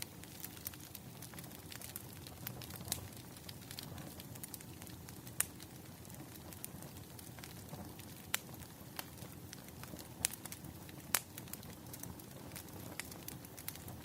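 Wood fire crackling, with a low steady rumble of flames under irregular small pops and a few louder snaps scattered through, about four of them standing out.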